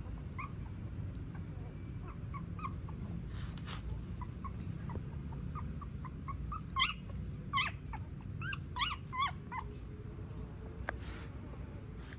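Newborn puppies whimpering and squeaking in short high cries, with a louder run of yelps between about seven and ten seconds in. A steady low rumble runs underneath.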